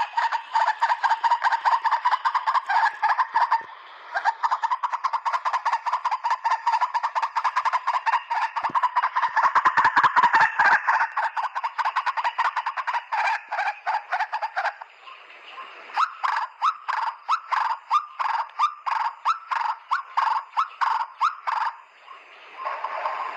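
White-breasted waterhen giving its harsh, rapidly repeated 'ruak-ruak' calls. The run of notes breaks off about two-thirds of the way through and resumes as separate notes, roughly three a second.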